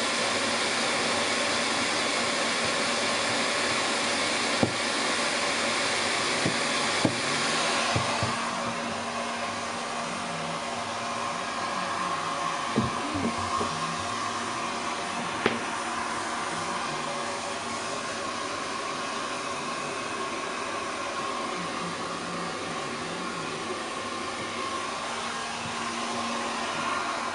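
Hair dryer blowing steadily while drying a long-haired Ragdoll cat's fur, its sound dropping a little about eight seconds in, with a few brief knocks.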